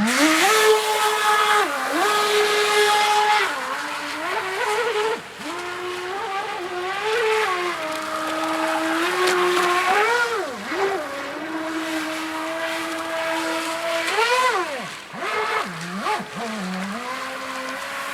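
Motor of an RC jet boat whining as it is driven. The pitch holds level for a few seconds at a time, then rises and falls with the throttle, with sharp dips and swoops around the middle and near the end.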